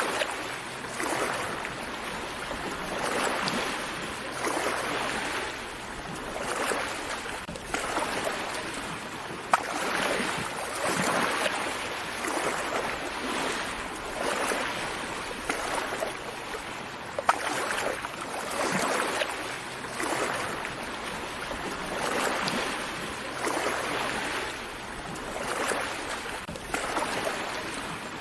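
Gentle sea waves washing on a shore, a soft swell of water rising and falling every two to three seconds. A few brief sharp ticks of water splash through it.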